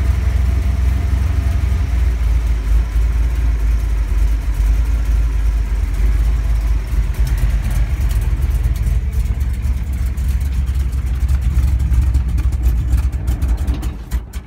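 Chrysler 440 big-block V8 of a 1979 Dodge Maxivan running steadily on a single carburetor bowl's worth of hand-poured fuel, its first run in at least twenty years. Near the end it fades and dies as it runs out of gas; the carburetor's needle and seats are stuck, so it cannot be fed from the tank.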